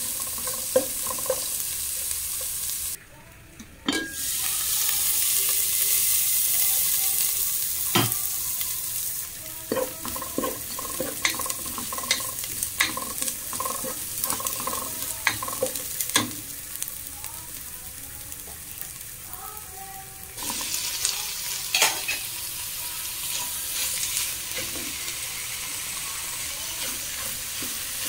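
Diced onions frying in hot oil in a pan, sizzling while a spatula stirs them, with scattered taps and scrapes of the spatula against the pan. The sizzle drops out briefly about three seconds in and gets louder again about two-thirds of the way through.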